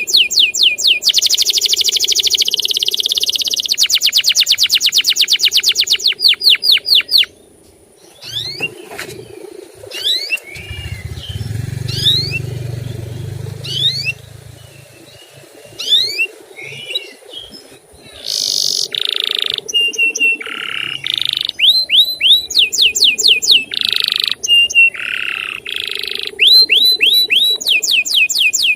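Male canary singing: rapid runs of repeated rising 'cuit' chirps and rolling trills, thinning to scattered sweeping chirps in the middle, then picking up again into fast varied trills near the end.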